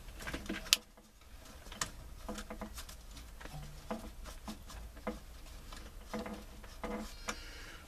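Scattered light clicks and rustling of hands and wiring as a turn signal switch's wire harness is worked down through a Jeep Wrangler steering column. One sharper click comes a little under a second in.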